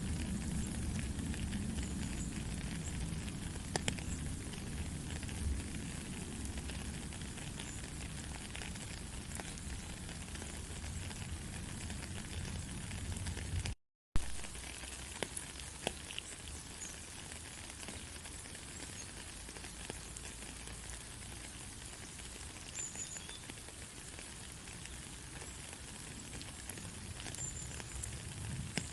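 Steady rain falling, a dense hiss with scattered individual drops ticking close by. About halfway through it cuts out for a moment and comes back with a click, with less low rumble afterwards.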